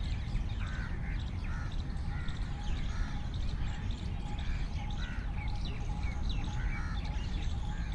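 Several birds calling and chirping in quick, overlapping short calls over a steady low rumble.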